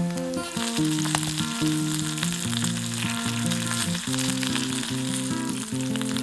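Food sizzling in a hot frying pan, a dense crackling hiss that starts about half a second in, over background music.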